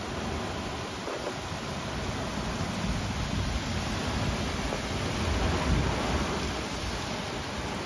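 Heavy rain pouring steadily in a thunderstorm, with a low rumble that swells about three seconds in and again more strongly around five to six seconds.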